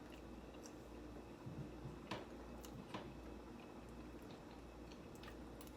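Quiet eating sounds: chewing of a mouthful of pasta, with a few sharp clicks of a utensil against the plate, the loudest about two and three seconds in, over a low steady hum.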